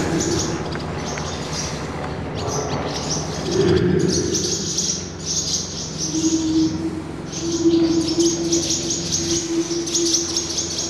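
Small bird chirping in rapid bursts of high, thin calls, with a steady low hum underneath from about halfway.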